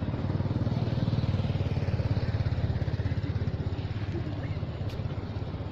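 An engine running with a fast, steady low pulsing, loudest through the middle.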